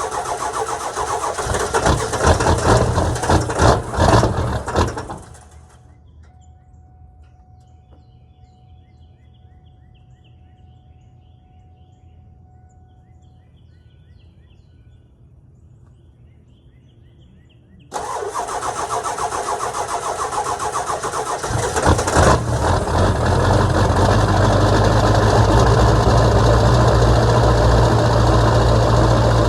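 1999 Ford 7.3 Powerstroke turbo-diesel V8 cold start: the starter cranks for about five seconds and stops without the engine catching. After a pause, it cranks again, the engine fires about four seconds later and settles into a steady, loud diesel idle.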